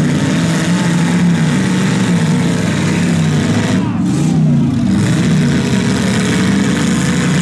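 Demolition derby car engines running loud and rough, the engine note rising and falling again and again as the cars are revved and backed around the dirt arena.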